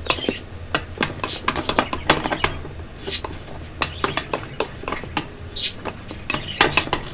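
Utensil stirring paint into slime glue in a bowl: quick, irregular clicks and scrapes against the bowl.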